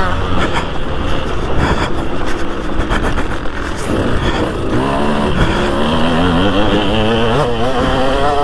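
2003 KTM 200 SX two-stroke motocross engine revving on the track, its pitch climbing and dropping again and again as the throttle is worked, clearest in the second half, over a constant rough low noise.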